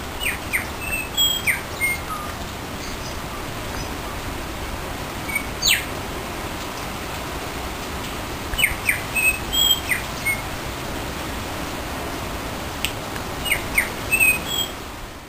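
Small garden birds chirping in short bouts of quick falling notes, with one longer falling whistle about six seconds in, over a steady hiss of rain.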